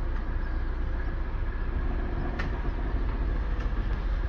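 Passenger train moving off, heard from inside the coach's guard's compartment: a steady low rumble, with a single sharp click about two seconds in.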